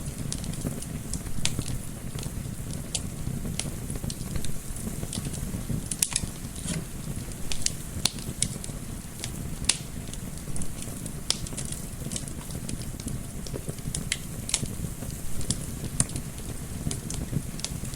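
Wood fire in a fireplace crackling, with irregular sharp pops and snaps, a few louder ones about six seconds in, over a steady low rumble.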